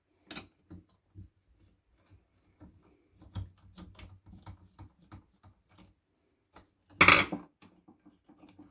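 Scattered small clicks and taps as the opened electric kettle's parts and circuit board are handled, with one louder clatter about seven seconds in.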